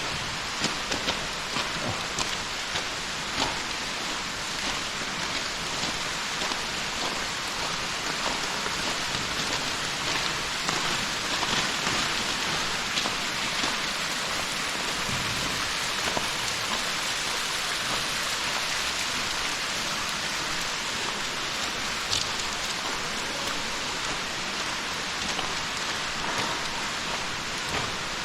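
Snowmelt water dripping and pattering steadily like rain, with scattered sharp drip splashes throughout.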